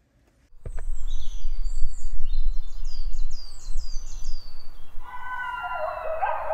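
Birds calling outdoors: a run of short, high chirps that each slide downward, over a low steady rumble. About five seconds in a louder, lower animal call with several pitches at once joins in and slides down near the end.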